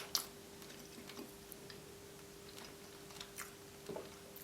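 Close-miked chewing and wet mouth clicks as someone eats the last bites of roast chicken, with a few sharper clicks near the start and about three to four seconds in, over a faint steady hum.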